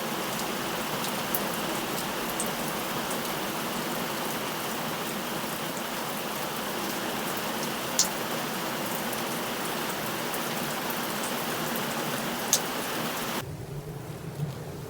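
Heavy rain falling steadily, with a few sharper drops striking close by. About thirteen seconds in, it cuts abruptly to a quieter, lower rushing noise.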